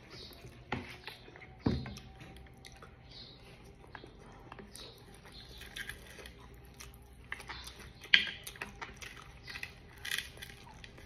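A person chewing a mouthful of rice and sun-dried fish (bulad) close to the microphone, with wet mouth sounds and a few sharp knocks, the loudest about eight seconds in.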